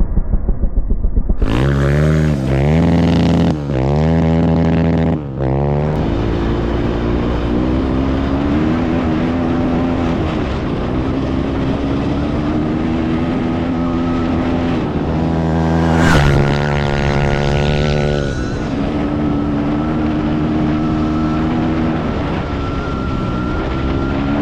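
KTM 450 XC-W dirt bike's single-cylinder four-stroke engine revved hard three times, then ridden up through the gears with several rises and drops in pitch, and revved once more near the end.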